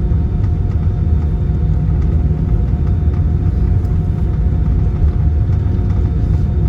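Steady low rumble of an Airbus A320-214 heard inside the cabin, its CFM56-5B engines idling with a constant faint hum over the rumble as the airliner taxis after landing.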